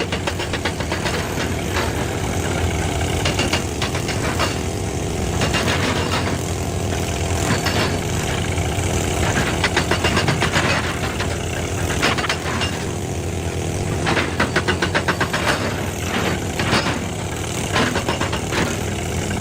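Excavator's diesel engine running steadily, with bursts of rapid metallic clattering every few seconds.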